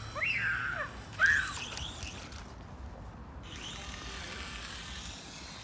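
Toy RC helicopter's small electric motor and rotor whirring faintly and steadily. There are two short high-pitched calls in the first second and a half.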